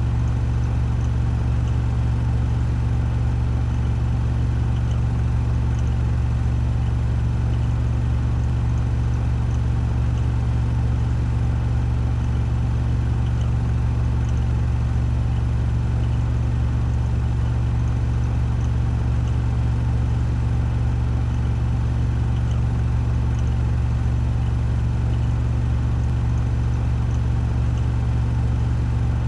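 Washing machine spinning at 1400 rpm on its spin cycle: a steady deep hum with a fainter whir above it, unchanging throughout.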